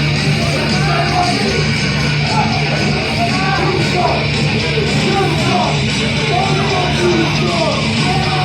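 Loud heavy rock music with distorted electric guitar and yelled vocals, playing steadily throughout.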